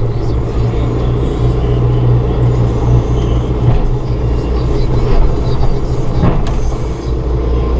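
John Deere 5100E tractor's four-cylinder diesel idling, heard from inside the closed cab, while the loader hydraulics push the bucket down at idle speed. A single knock about six seconds in.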